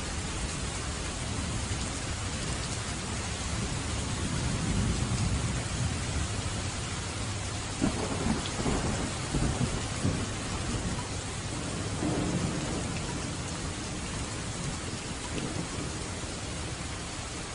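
Steady rain in a thunderstorm with low rolling thunder. A sharper crack of thunder comes about eight seconds in and rumbles on for a few seconds, with another roll a little later.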